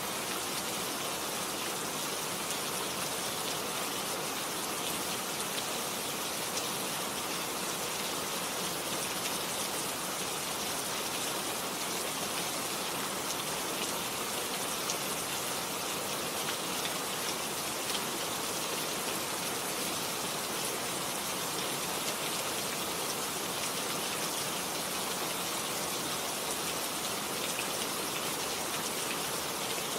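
Steady rain falling, with a dense patter of drops hitting surfaces.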